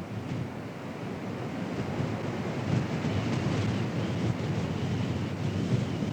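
Strong wind buffeting the microphone in tornado footage: a steady rushing rumble that swells slightly after the first couple of seconds.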